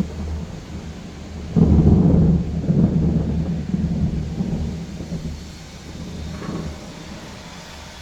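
Thunder over rain: a peal breaks suddenly about one and a half seconds in and rumbles low, fading away over the next few seconds.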